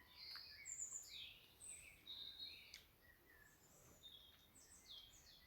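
Wild birds chirping faintly outside an open window: a string of short, high calls and trills, several overlapping.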